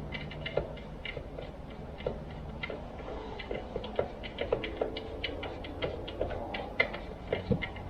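Irregular light clicks and ticks of hand tools and small metal parts being handled while a chainsaw is worked on, over a faint steady low hum.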